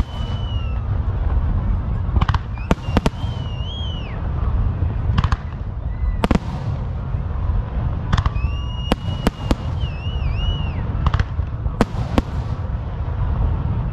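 Fireworks going off: a dozen or so sharp bangs and cracks at irregular intervals over a continuous low rumble. Wavering high whistles sound between the bangs near the start, a few seconds in and again past the middle.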